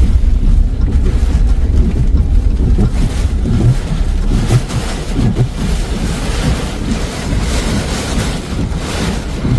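Strong tornado wind buffeting the microphone: a deep, loud rumble with a rushing hiss that grows stronger about halfway through.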